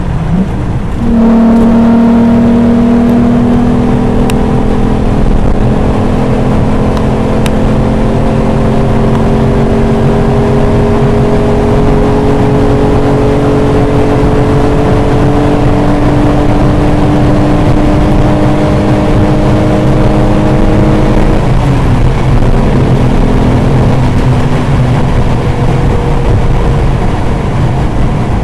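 Volkswagen VR6 engine under hard throttle, heard from inside the car at motorway speed, its note climbing slowly and steadily as the car accelerates toward 200 km/h over road and wind noise. A little over twenty seconds in, the note drops and then runs on steady.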